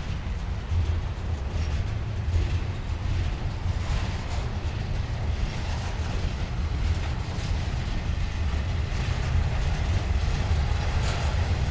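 Double-stack intermodal freight train of container-laden well cars rolling past: a steady low rumble with the rattle of the cars and a few sharp clicks.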